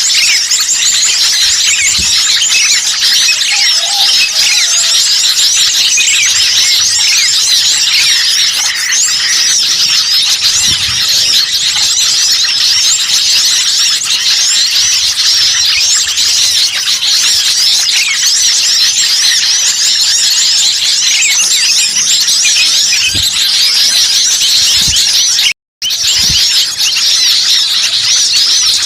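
Bird-lure recording of many small birds chirping and twittering at once in a dense, noisy, high-pitched chorus, meant to draw wild birds in. The sound cuts out for a split second about 26 seconds in.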